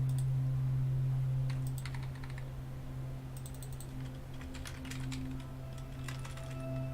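Typing on a computer keyboard: irregular key clicks over a steady low electrical hum.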